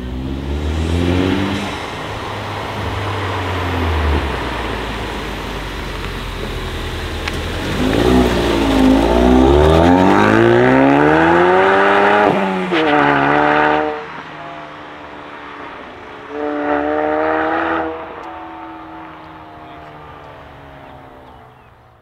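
Tuned Ford Mustang EcoBoost's turbocharged 2.3-litre four-cylinder, through a Roush exhaust, accelerating hard: the revs climb steeply several times, dropping sharply at each gear change. The sound fades away near the end.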